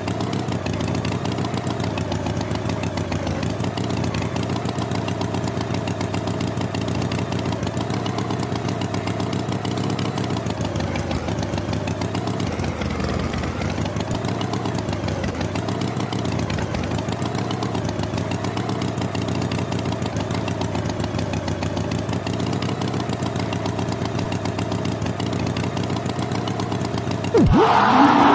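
An engine running steadily at a constant speed, its pitch wavering slightly. Just before the end a louder sound cuts in suddenly.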